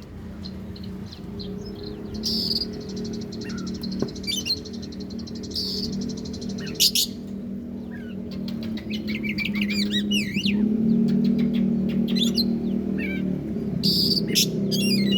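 Oriental magpie-robin (kacer) singing: a varied string of short chirps, whistled sweeps and quick trills, over a steady low droning background that grows louder in the second half.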